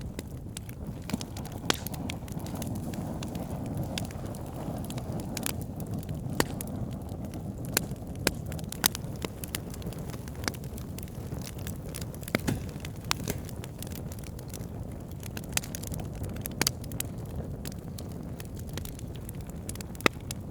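Campfire of burning wood crackling: a steady low rush of flames with irregular sharp pops and snaps, a dozen or so of them standing out louder.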